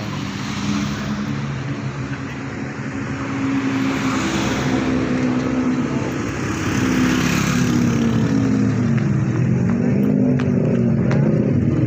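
A low, steady drone with several pitches sounding together, slowly growing louder, its pitch wavering and bending in the later part; it is the unexplained 'strange sound' recorded on the slope of Mount Lawu.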